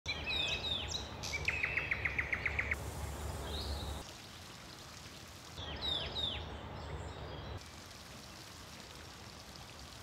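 Small birds chirping: quick falling chirps, then a fast trill of about eight notes a second, then more falling chirps about six seconds in. A faint steady low background noise lies under them.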